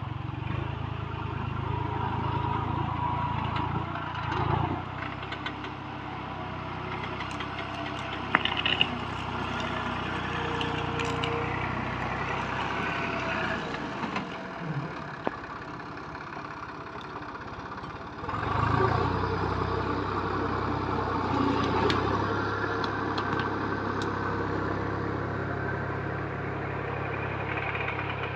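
Tractor's diesel engine running steadily, easing off for a few seconds in the middle and picking up again strongly about eighteen seconds in. A few sharp knocks and cracks stand out over the engine.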